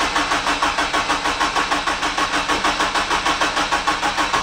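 Freshly built Honda K20A2 four-cylinder engine being cranked by its starter on its first start-up attempt, not yet firing: an even chugging of about six or seven compression pulses a second that stops abruptly near the end.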